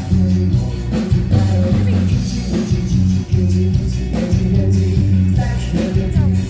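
Live rock-pop band playing through a PA: heavy bass line and drum kit keeping a steady beat, with guitar and a singer's voice over them.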